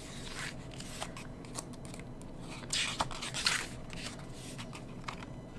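Pages of an album photobook being turned and handled: soft paper swishes with a few light clicks, the loudest swish about three seconds in.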